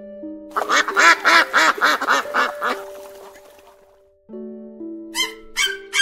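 Domestic duck quacking in a fast run of about eight quacks, some four a second, over background music. Near the end a second series of sharp calls begins, about two a second.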